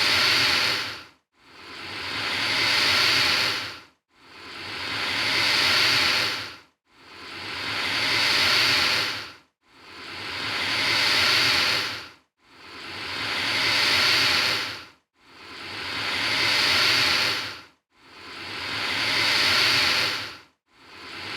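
Alligator hissing again and again, a long breathy hiss about every two and a half seconds. Each hiss swells and then cuts off, with a short silence before the next. The hisses are all alike, as if one hiss is repeated in a loop.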